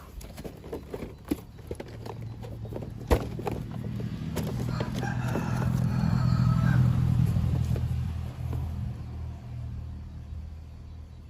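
Electric model train running on its track: a steady motor hum that swells to a peak about six or seven seconds in and then fades, after a run of light clicks and taps with one sharper tap.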